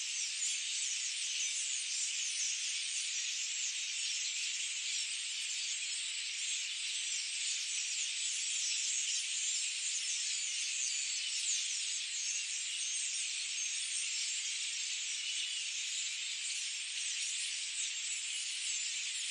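Dense, steady high-pitched forest chorus of many overlapping tiny chirps and trills, with no low sounds under it.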